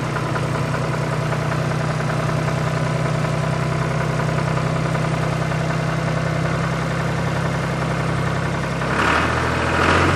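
Small motor of a homemade mini tractor running steadily with an even hum; about nine seconds in its note drops lower and gets slightly louder.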